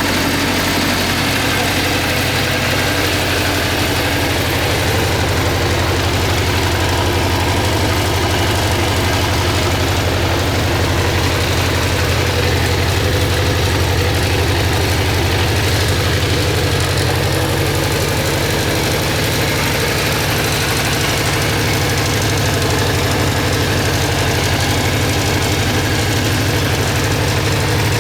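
Suzuki GSX400F's air-cooled inline-four engine idling steadily, without revving.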